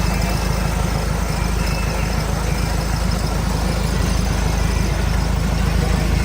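A vehicle engine idling with a steady low rumble, with people talking in the background.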